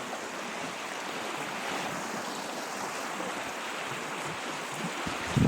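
River water rushing steadily, a constant even hiss. Near the end there is a brief low thump on the microphone.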